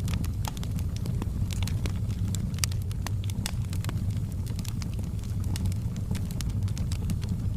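Bonfire burning: a steady low rumble of the flames with irregular sharp crackles and pops of the burning wood.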